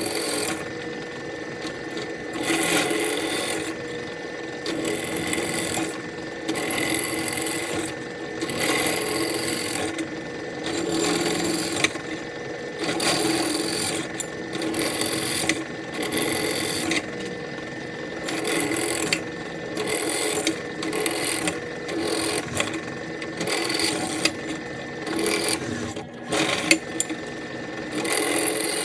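Electric drill boring out holes in a Harley Sportster exhaust baffle: the motor's whine with the bit grinding through metal, surging in repeated bursts every second or two.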